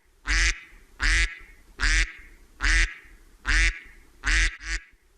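A duck quacking: six short, evenly spaced quacks, about one every 0.8 seconds.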